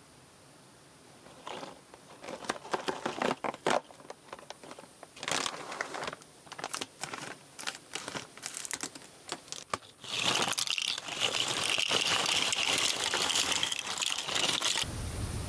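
Irregular crinkling and crackling, like plastic packaging being handled, then a loud steady hiss for about five seconds that cuts off suddenly near the end.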